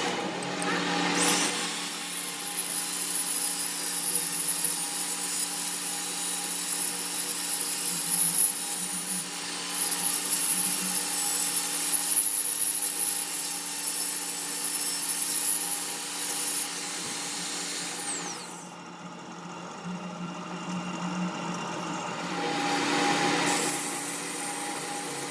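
A high-speed power tool in metalworking starts up with a high whine, runs steadily with a rough cutting or rubbing noise for about seventeen seconds, then winds down, its whine falling in pitch. A steady machine hum continues underneath.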